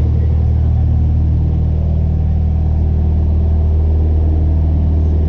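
Small airplane's engine droning steadily at a constant pitch.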